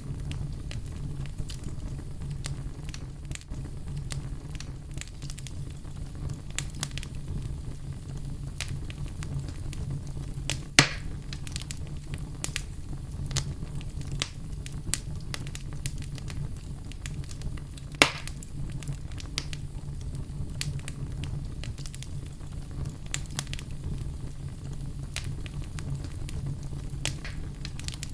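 Wood fire burning in a fireplace with a steady low rumble of flames and frequent scattered crackles, with two louder pops about 11 and 18 seconds in.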